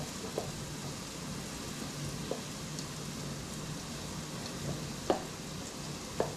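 Onions and garlic sizzling steadily in butter and olive oil in a skillet, with a few light taps of hands working meat in a plastic mixing bowl.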